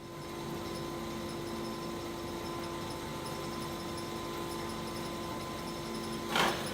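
A steady hum with a faint regular high ticking, broken by a short noisy rush near the end.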